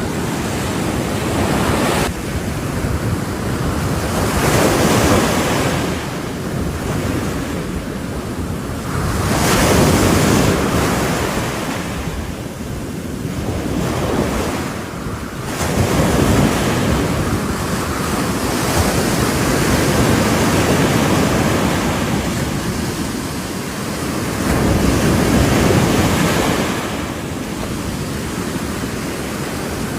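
Ocean waves breaking on a shore, the surf swelling and ebbing every few seconds, with wind buffeting the microphone.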